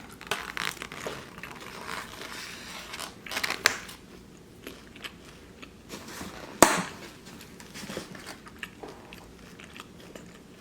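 Close-miked eating: a person biting and chewing, with crisp crunches and wet mouth clicks, the busiest stretch about three to four seconds in. One sharp click about six and a half seconds in is the loudest sound.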